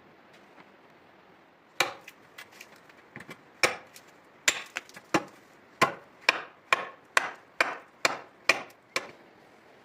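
A tool striking wood over and over in sharp blows, sparse and uneven at first, then steady at about two blows a second.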